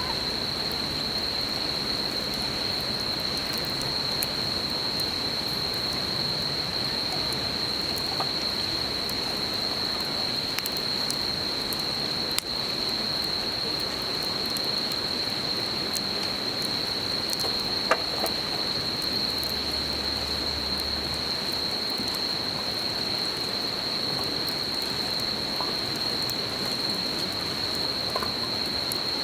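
Insects calling in one steady, unbroken high trill over the even rush of a murmuring river, with a few sharp crackles and pops from a wood campfire, the clearest about twelve and eighteen seconds in.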